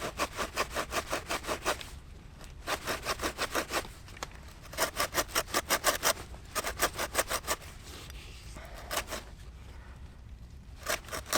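Handsaw cutting a groove into a wooden stick in quick, short back-and-forth strokes, about six a second. The sawing comes in several bursts with brief pauses between them.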